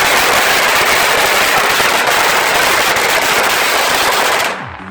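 Fireworks going off in a dense, rapid, continuous crackle that cuts off suddenly about four and a half seconds in.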